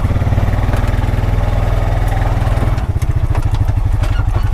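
2021 Honda Pioneer 520 side-by-side's single-cylinder engine running with a rapid, even pulsing beat, a little fuller for the first two and a half seconds before settling.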